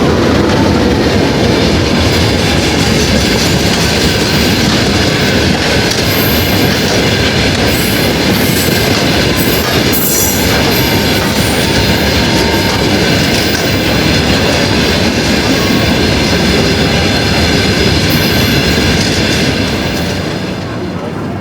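A children's playground ride train running, loud and steady, easing off near the end.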